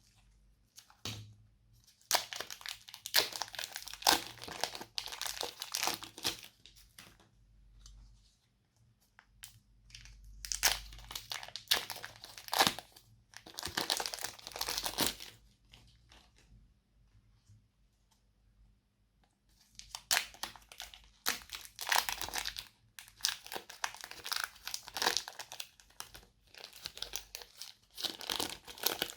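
Slime being squished, stretched and worked by hand, a crackly, crinkling sound in three spells with short quiet pauses between.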